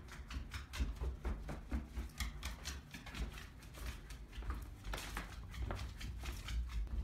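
A dog's claws clicking on a hard floor as it walks: many quick, irregular clicks, several a second.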